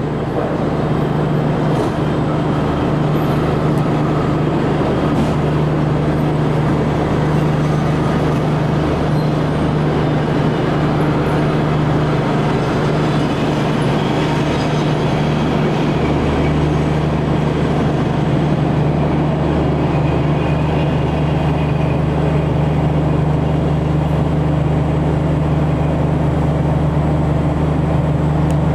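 Passenger train coaches rolling past on the rails as the train pulls out of the station, a steady rushing rumble over a continuous low hum.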